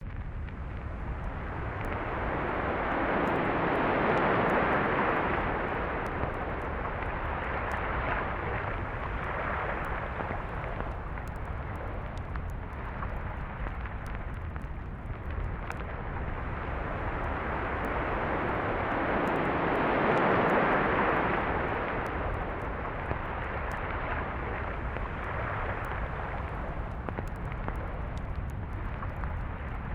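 Sea waves breaking and washing up a beach: two large swells of surf about sixteen seconds apart, smaller ones between, over a steady low rumble.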